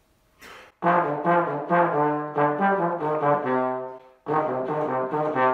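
A trombone playing a holiday melody note by note, starting about a second in, with a short break about four seconds in before the tune carries on.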